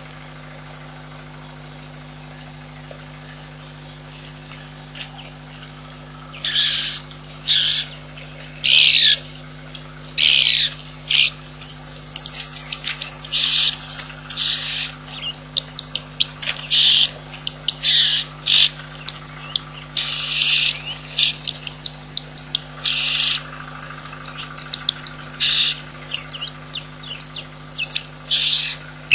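Birds calling, starting about six seconds in: short, loud, high calls in quick succession, some in rapid clicking runs, over a steady low hum.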